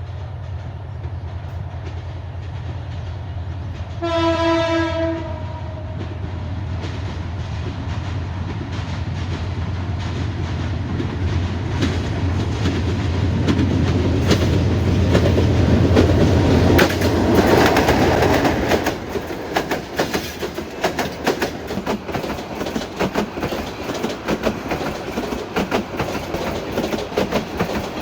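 Passenger train running with a steady low drone; about four seconds in, a train horn sounds one steady note for about a second. From about twelve seconds in, the wheels clatter in quick knocks over rail joints, growing louder. The drone stops near eighteen seconds, leaving irregular bangs and rattles of the coach over rough, poorly maintained track.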